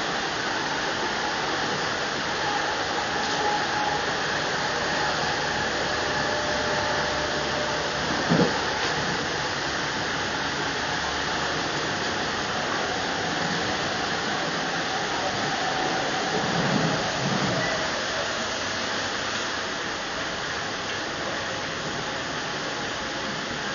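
Steady rushing noise of a moving passenger train, heard inside the carriage. A short loud knock comes about eight seconds in, and a softer swell follows around seventeen seconds.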